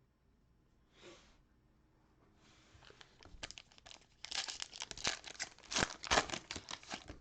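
Plastic wrapper of a trading card pack being torn open and crinkled: a crackling rustle that starts about two and a half seconds in and is loudest over the last three seconds.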